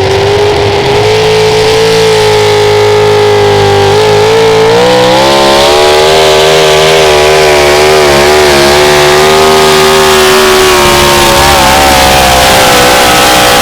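Chevrolet pulling truck's engine running at full throttle under load as it pulls the sled. The pitch climbs about four seconds in and then wavers up and down as the truck works down the track.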